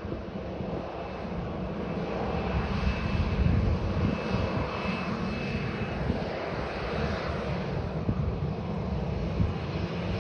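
Boeing 737 jet engines running with a steady rumble and a faint thin whine over it, swelling slightly a few seconds in.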